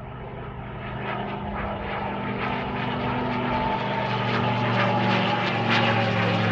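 RANS S-7 light airplane's propeller engine droning, growing steadily louder as it approaches.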